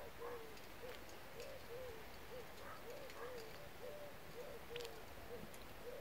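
A bird calling in the background: a rapid run of short, low hooting notes, about three a second, some overlapping, with a few faint high ticks over them.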